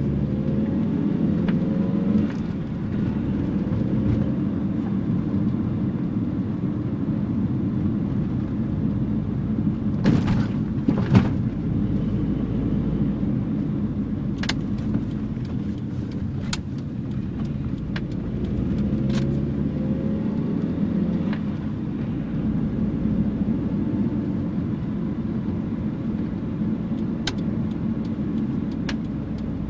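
1984 Nissan N12's 1.5-litre four-cylinder engine running under way, a steady rumble whose pitch rises twice as it pulls. Scattered sharp clicks and a brief louder knock about ten seconds in.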